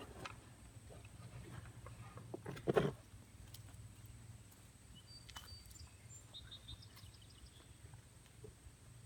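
A brief, louder scuffling noise about three seconds in, then quiet outdoor ambience with a few faint bird chirps.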